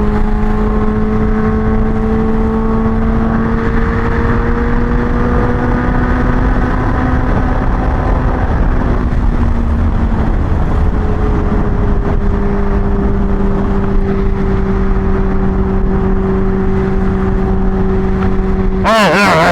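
Kawasaki Ninja H2's supercharged inline-four running at steady cruising speed, heard from the bike itself under a rumble of wind on the microphone. Its note climbs slowly for several seconds, drops off about ten seconds in, then holds even.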